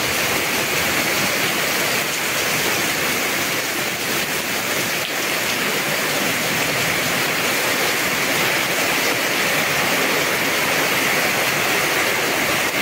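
Heavy tropical downpour: rain falling hard on paving and leaves, a dense, steady hiss.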